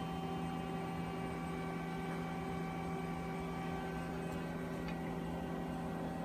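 A steady background hum made of several unchanging tones, with no other distinct sound.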